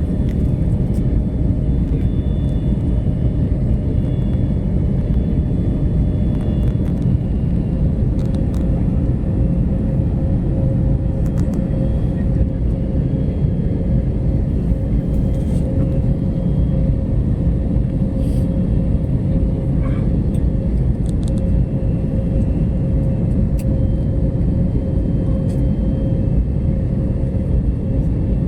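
Airliner cabin noise: a steady, loud low rumble of engines and airflow with a faint constant hum running through it.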